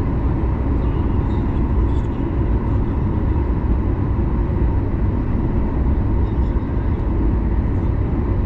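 Steady low rumble inside the cabin of a Boeing 737 MAX 9 taxiing, its CFM LEAP-1B engines running at taxi power, with a faint steady hum over the rumble.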